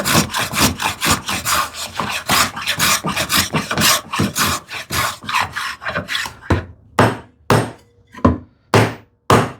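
Rapid back-and-forth strokes of a hand tool working wood, about three or four a second, slowing to separate strokes about two a second for the last few seconds.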